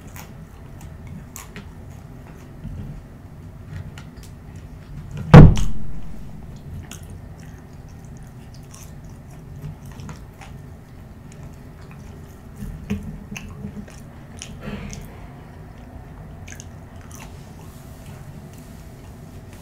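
Close-miked chewing of french fries, with small wet mouth clicks and smacks. One sharp, loud thump comes about five seconds in.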